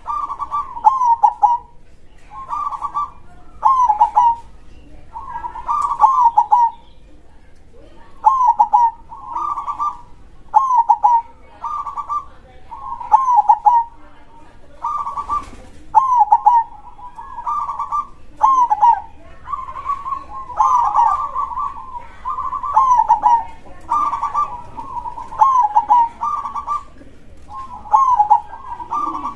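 Zebra dove (perkutut) cooing: short, rapid, rolling phrases repeated every second or two with barely a pause, the steady, vigorous calling bird keepers call gacor.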